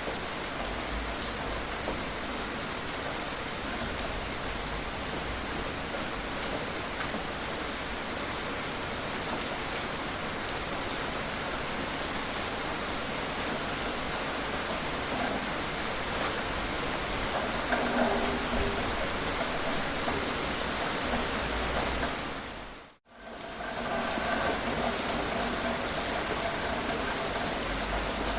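Gentle rain falling steadily, an even hiss of rain with scattered drops. About three-quarters of the way through, it fades out to silence for a moment and fades straight back in.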